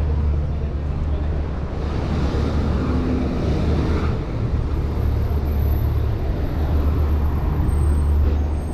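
Wind rumbling on the microphone of a moving bicycle, with city road traffic around it; a passing vehicle swells the noise for a couple of seconds near the start.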